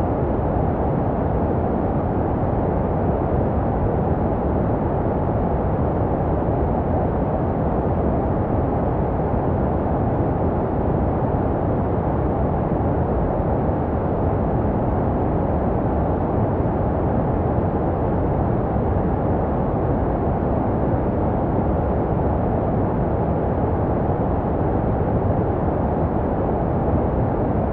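Baby-sleep white noise: a steady, deep, muffled rushing hiss that never changes, made to resemble the sounds a baby hears inside the mother's belly.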